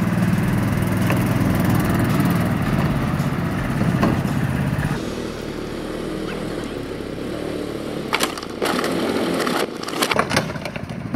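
Small engine of a ride-on mini monster truck running, easing off about five seconds in. Near the end a quick run of cracks and knocks as the truck drives over a plastic Power Wheels toy Jeep, breaking it.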